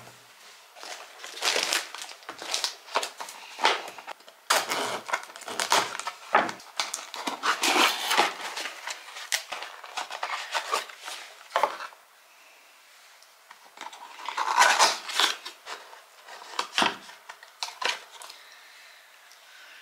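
Packaging being crinkled and rustled by hand in irregular bursts, with a quieter pause about twelve seconds in before more handling.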